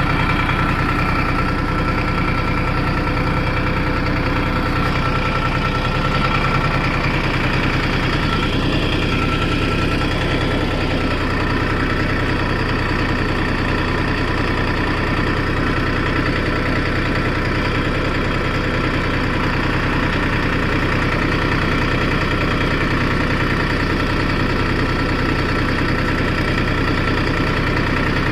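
New Holland 3230 NX tractor's diesel engine running at a steady speed, with no let-up.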